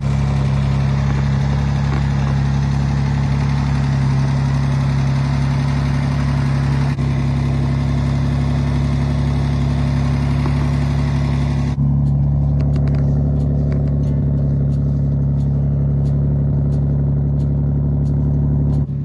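Austin-Healey 3000 Mark II's straight-six engine idling steadily. About twelve seconds in the sound changes abruptly, as the higher hiss drops away, at a cut to another recording of the same running engine.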